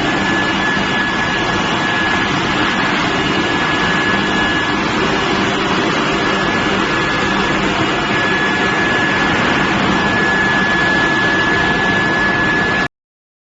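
Induction billet-heating furnace line running: a steady, loud industrial noise with a thin, constant high whine. It cuts off abruptly near the end.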